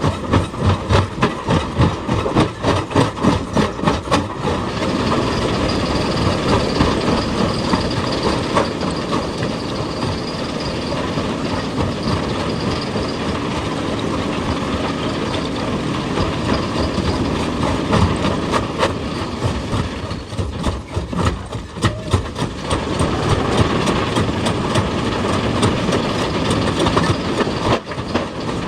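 Heavy machinery working, with a rhythmic knocking for the first few seconds that then gives way to a steady mechanical running noise, and knocking again past the middle.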